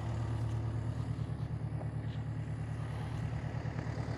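Volvo skid steer's diesel engine running steadily under throttle, a low even drone with a fine regular pulse.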